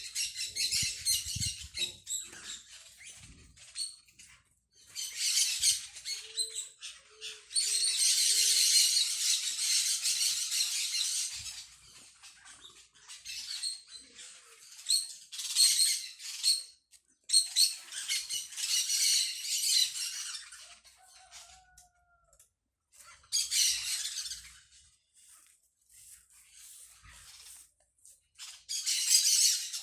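Small birds chattering and twittering in several long, dense bursts of a few seconds each, with short pauses between.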